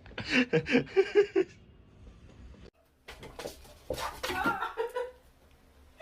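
A person laughing in quick bursts for about the first second and a half. After a short break comes a couple of seconds of mixed noise with a brief pitched sound near the end.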